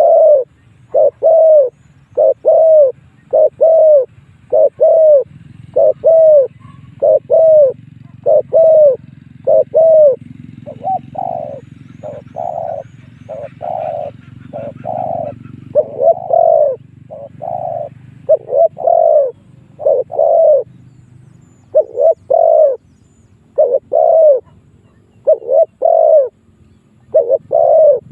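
Spotted dove cooing over and over in short, rounded notes, about one to two a second, with a few fainter notes partway through. This is the bird's territorial song, used here as a decoy call to draw rival wild doves in.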